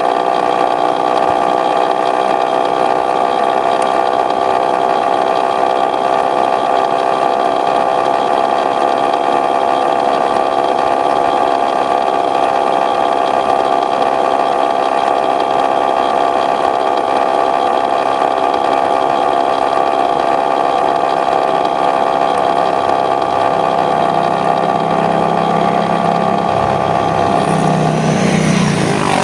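Aprilia RS125 single-cylinder two-stroke engine running at steady, high revs. About two seconds before the end the tone shifts, with a sweeping sound and deeper notes coming in.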